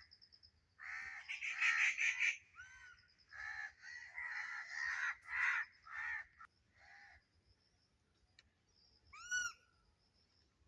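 Rufous treepie giving a run of harsh, grating calls over about six seconds, then a single clear ringing note near the end.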